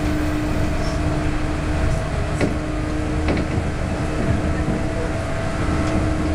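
Inside a JR West 113 series electric train running at speed: the steady rumble of the wheels on the rails, with a steady hum and a couple of sharp clicks in the middle.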